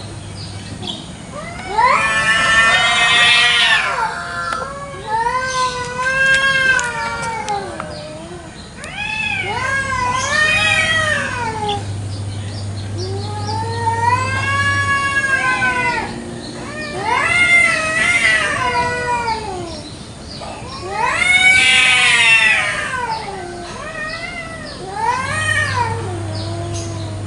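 Domestic village cats caterwauling in a territorial standoff: long yowls that rise and fall, one after another, with two louder, higher yowls about two seconds in and again past the twenty-second mark.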